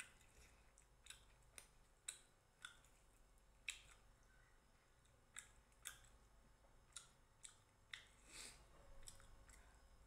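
Faint mouth sounds of someone eating roti and chicken curry by hand: chewing with irregular short, sharp wet smacks and clicks, about fifteen in ten seconds.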